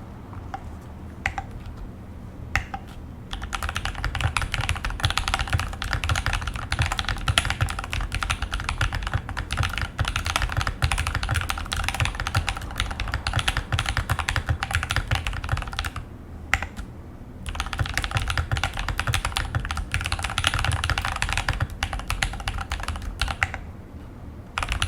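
Typing on a GMMK Pro mechanical keyboard with lubed and filmed Glorious Panda tactile switches, an aluminum plate and HK Gaming muted keycaps. A few single key presses come first, then fast continuous typing, broken after the middle by a pause of about a second and a half and briefly slowing again near the end.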